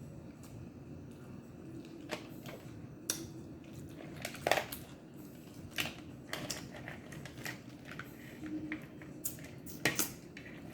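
Crab shells being cracked and picked apart by hand, heard as a scatter of sharp cracks and clicks, the loudest about four and a half seconds in and near the end.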